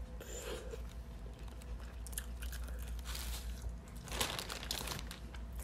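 Close-up chewing and wet mouth sounds of a person eating sauce-coated seafood-boil food, with a few louder smacks about three and four seconds in. A plastic bag crinkles under her hands.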